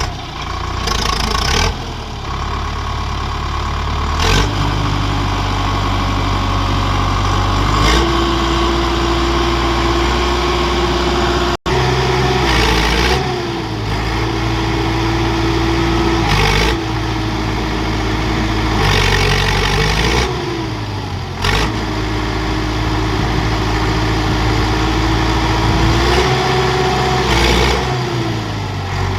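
Tractor diesel engines revving under load, the pitch climbing and dropping back several times as they strain to free a stuck tractor on a tow chain. There is a brief sudden break in the sound near the middle.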